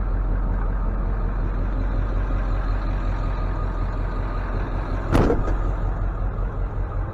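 Tow truck's engine running steadily with a low rumble, with a short burst of noise about five seconds in.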